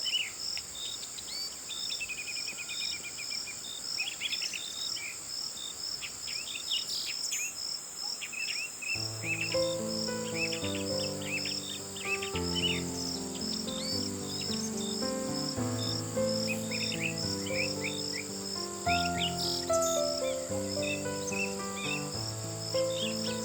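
Crickets chirping in a steady pulsing chorus, with scattered bird chirps over it. Soft piano music comes in about nine seconds in and plays on beneath the crickets.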